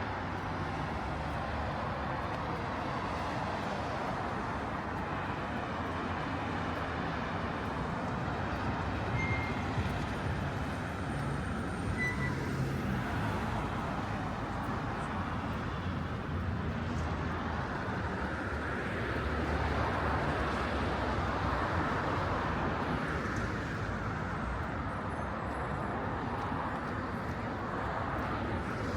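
Steady city street traffic: cars and other vehicles passing with a continuous tyre and engine rumble that swells as vehicles go by, loudest about twenty seconds in.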